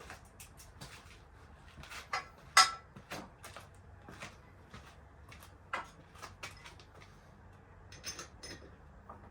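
Irregular clicks, clinks and knocks of tools and parts being handled during work on a motorcycle, with one much sharper knock about two and a half seconds in.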